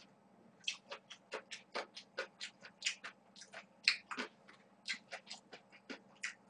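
Close-miked chewing of a mouthful of buckwheat noodles: a string of short, wet mouth clicks and smacks, a few a second, irregular, with one louder smack about four seconds in.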